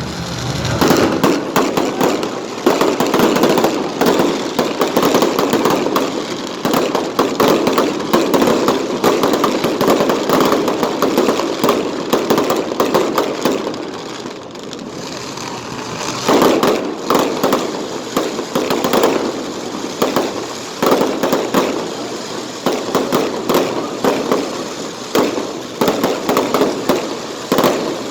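Fireworks display: a dense, rapid barrage of bangs and crackling that eases briefly about halfway through, then builds again.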